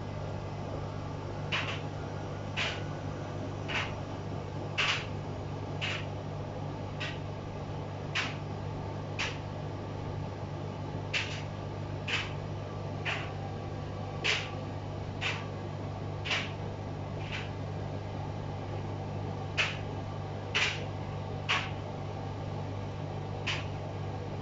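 Front-loading washing machine running a wash: a steady low motor hum, with a short swish about once a second as the drum turns, pausing now and then.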